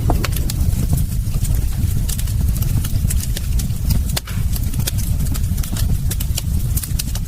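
Wood fire crackling and popping irregularly over a steady low roar of flames.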